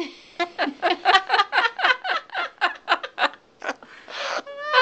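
Parrot making a rapid run of short laugh-like calls, about five a second, each dropping in pitch, followed near the end by a brief hiss and a rising whistle.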